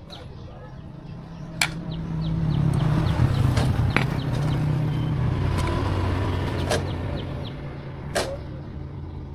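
A motor vehicle engine hums low, swelling over a couple of seconds and then slowly fading, like a vehicle going by. Four sharp knocks stand out over it.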